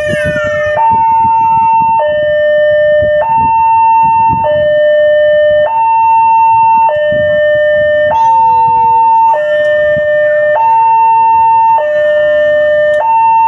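Railway level-crossing warning alarm sounding a steady two-tone signal, alternating high and low about every second and a quarter, to warn that trains are coming. Underneath is the rumble of passing trains, and in the first second a train horn drops in pitch as the train goes by.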